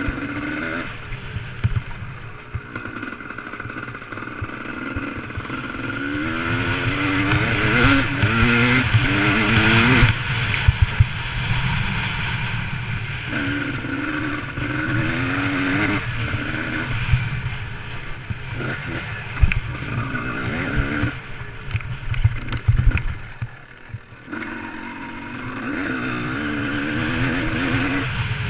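Motocross dirt bike engine revving up and dropping back again and again as it is ridden, with a heavy low rumble and knocks beneath. It is loudest about a third of the way in and dips briefly near the end.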